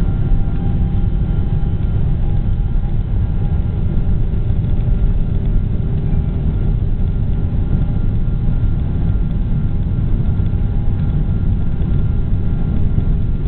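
Boeing 777 jet engines and airframe heard from inside the cabin during takeoff: a loud, steady low rumble with faint whining engine tones above it.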